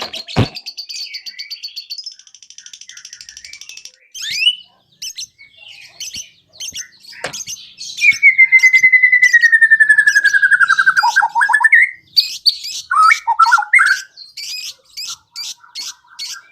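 White-rumped shama (murai batu) singing a varied song: fast chattering trills, then a long whistled note that slides slowly down in pitch about eight seconds in, followed by quick chattering and a rapid run of even notes near the end.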